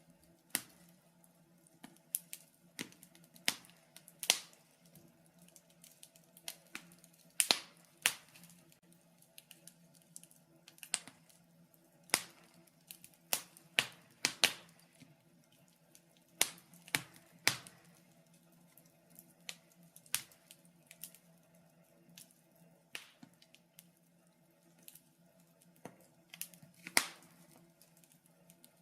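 Wood fire in a fireplace crackling, with irregular sharp pops and snaps, about one to three a second.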